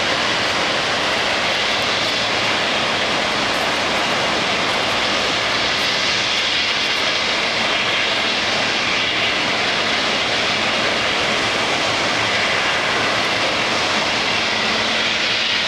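Steady rush of a large waterfall, an even roar of falling water.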